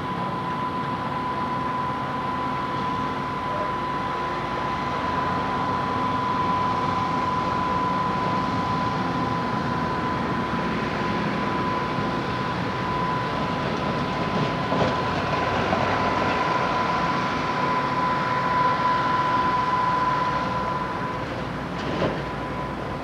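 Steam-hauled passenger train rolling along the track, a steady rumble of the cars with a thin, steady high tone over it that stops near the end. A single short knock comes just after.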